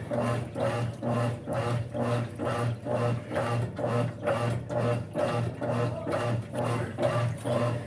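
Brastemp 5 kg top-loading washing machine agitating its wash load: a steady motor hum under a rhythmic swishing churn, about two strokes a second.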